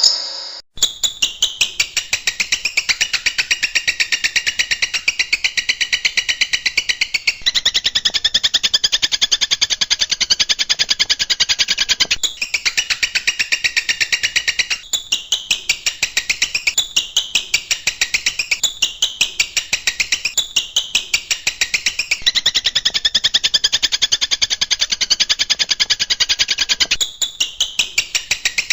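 Cendet (shrike) singing: a fast, continuous run of repeated harsh notes in long phrases, breaking off briefly a few times before starting again.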